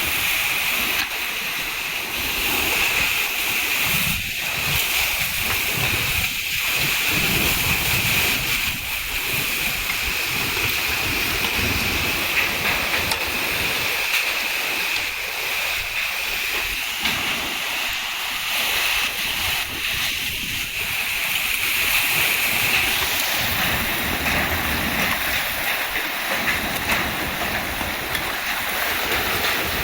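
Torrential downpour: a dense, steady rush of heavy rain with faint scattered ticks through it.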